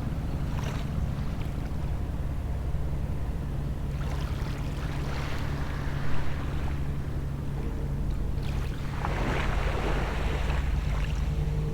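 Small waves washing onto the shore in three swells of hiss, over the steady low hum of a distant boat's engine.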